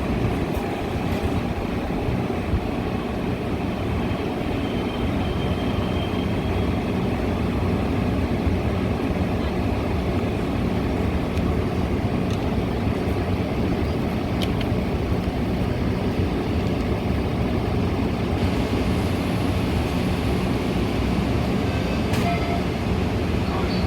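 Metra commuter train running, a steady low rumble that does not let up.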